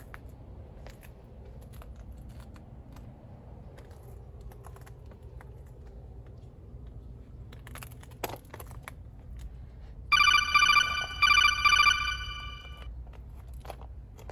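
An electronic phone ringtone trilling in three quick pulses for about three seconds, starting about ten seconds in, over a low steady rumble with a few scattered clicks.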